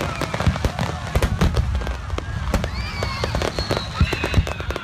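Fireworks going off in a dense, irregular stream of bangs and crackles, many shells detonating together: a fireworks barge exploding before its time, set off by a burst tube on board.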